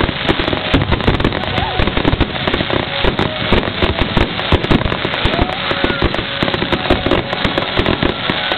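A dense barrage of aerial firework shells bursting, many loud reports a second running together into a continuous crackling rattle.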